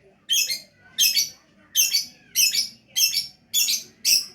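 Lovebird calling in a steady run of short, harsh, high-pitched chirps, about seven in four seconds: the continuous 'gacor' chattering song that keepers prize.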